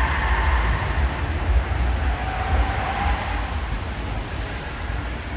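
Electric vehicle driving, heard from inside the cabin: a steady low road rumble under a faint electric-motor whine that falls in pitch.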